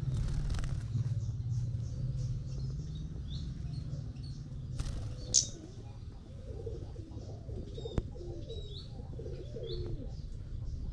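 Birds calling: short high chirps, one loud sharp chirp about five seconds in, and a dove cooing through the second half, with a couple of brief rustling bursts. A low hum sits underneath for the first three seconds.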